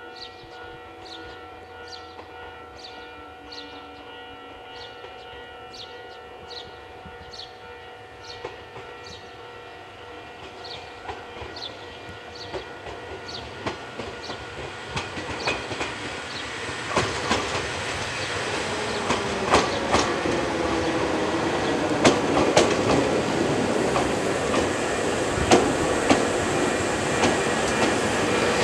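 A level-crossing bell ringing in a steady beat, a little under two strokes a second. Then the Ohmi Railway 100 series electric train approaches and draws alongside, its running noise growing louder from about halfway through, with the wheels clicking over rail joints.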